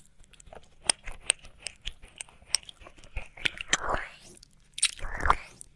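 Close-miked wet mouth sounds of ASMR ear licking: a run of small tongue and lip clicks, then louder wet licks and smacks about four and five seconds in.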